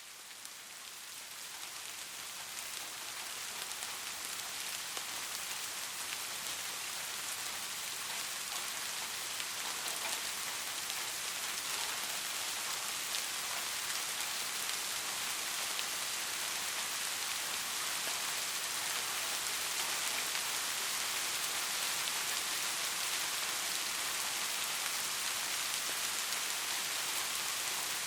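Steady rain falling, a dense hiss with individual drops ticking through it, fading in over the first few seconds and then holding at an even level.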